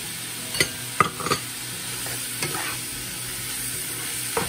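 Sliced ribeye, onions and mushrooms sizzling in a nonstick pan while a plastic spatula stirs them, knocking and scraping against the pan several times; the loudest knocks come about a second in.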